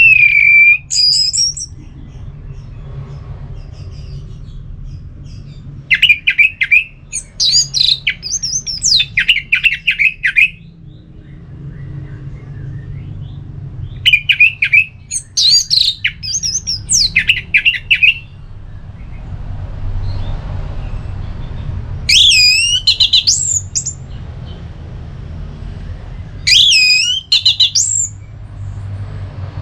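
Orange-headed thrush (anis merah) singing loud song phrases of fast, rising-and-falling notes, each a few seconds long, with pauses of several seconds between them. A steady low hum runs underneath.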